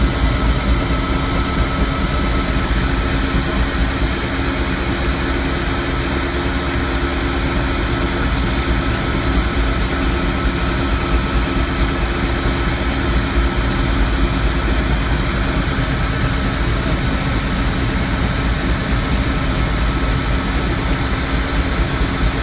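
Steady drone of a helicopter's engine and rotor heard inside the cabin: a heavy low rumble with a few steady whining tones, unchanging throughout.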